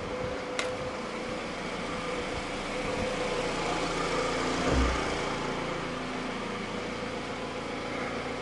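Car engine idling at raised revs while still warming up from cold. A sharp click comes about half a second in, and a brief low thump just before the five-second mark.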